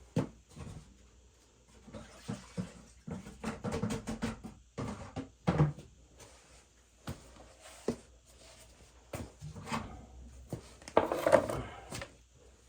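Irregular metallic knocks, clicks and clatter of hand tools and parts being handled while an oil burner assembly is loosened and pulled out, with the busiest, loudest stretch near the end.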